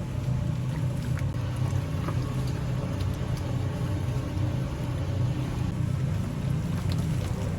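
Steady low machine rumble, with a few faint small clicks and clatters over it.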